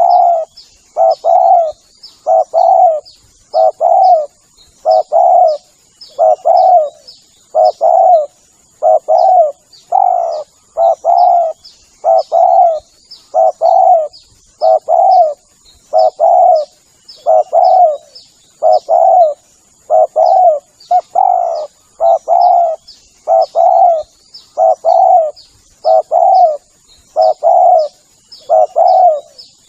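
Spotted dove (tekukur) cooing over and over, each phrase two or three coo notes, repeating a little over once a second as a lure call for wild doves.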